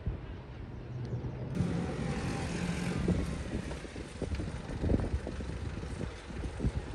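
Vintage tractor engines running on the road, a steady low rumble, with wind gusting on the microphone.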